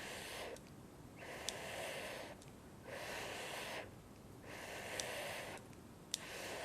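Close-miked breaths or puffs of air, one about every second and a half, five in all, with a few light clicks among them.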